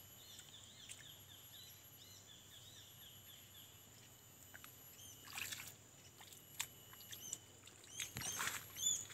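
Faint outdoor field ambience: a bird chirping in quick repeated short notes, over a steady high-pitched whine, with brief rustles about five seconds in and again near the end.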